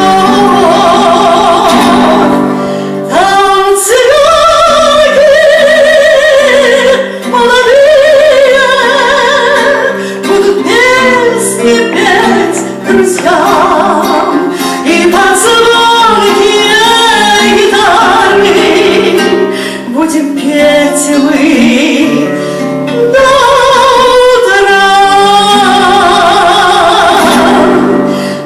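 A woman singing a romance in long held phrases with wide vibrato over instrumental accompaniment, with brief breaths between phrases.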